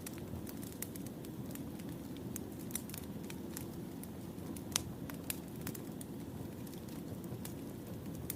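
Burning firewood crackling: a steady low rumble with irregular sharp pops and crackles, one louder pop a little past halfway.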